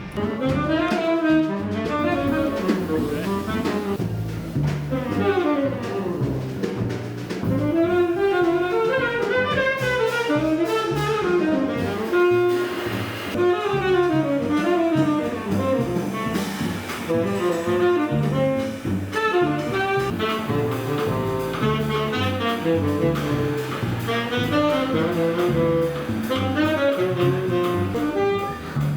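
Jazz saxophone playing a wandering melody with quick runs of notes, over a bass line moving note by note and drums.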